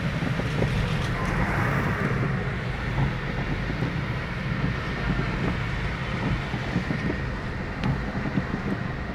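Road vehicle on the move: a steady low engine and road rumble with constant road noise.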